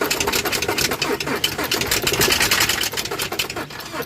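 Renault Duster engine being cranked, turning over with a fast, rattling clatter that stops abruptly near the end. The mechanic takes it for something broken inside the engine.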